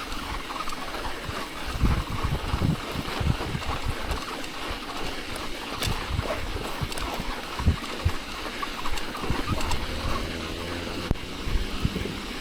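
Wind buffeting a chest-mounted action camera's microphone during a snowy bicycle ride: a steady rush with irregular low thumps, along with the hiss of tyres on snow.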